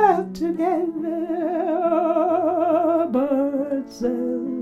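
Song: a voice holding long wordless notes with a strong vibrato, changing pitch twice, over sustained accompaniment chords.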